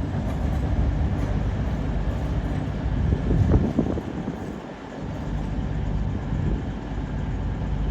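Pair of EMR Class 360 Siemens Desiro electric multiple units pulling out of the station, a steady low rumble of the moving train.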